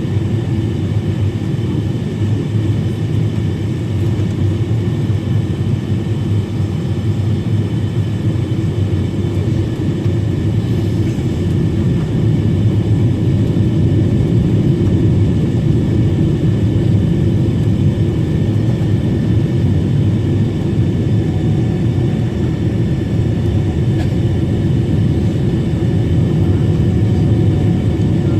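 Steady cabin noise of a Boeing 777-300 descending to land, heard from inside the cabin: a low rumble of airflow and engines with a few faint steady whining tones above it, growing slightly louder about twelve seconds in.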